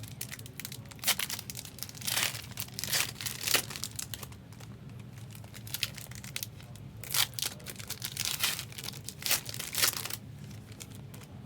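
Wrapping being crinkled and torn by hand, in irregular bursts, with a steady low hum underneath.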